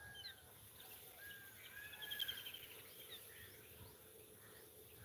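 Faint bird calls: a few short whistled notes and chirps, with a quick trill about two seconds in.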